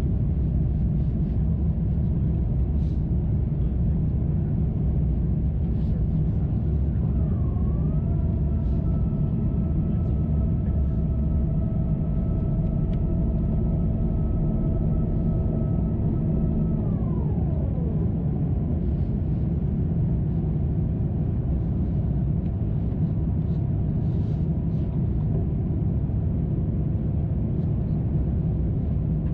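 Airbus A350-900 cabin noise on approach: a steady low rumble of airflow and engines. About seven seconds in, a mechanical whine joins it, holds one pitch for about ten seconds, then slides down and fades.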